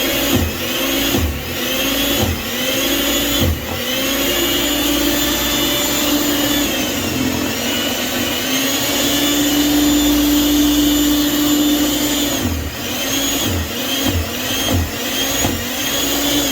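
Small Snow Joe electric snow thrower running in deep, wet, heavy snow: its motor whine dips in pitch and recovers again and again as it bites into the snow, holds steady for several seconds in the middle, then dips repeatedly again near the end.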